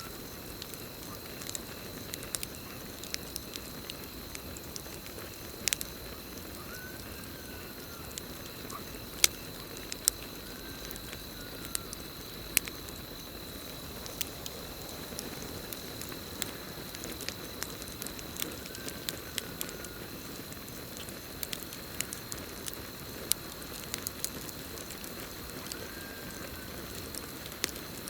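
Campfire crackling, with sharp pops scattered irregularly through it, over a steady high trill of crickets. A short call that rises and falls repeats about every five seconds.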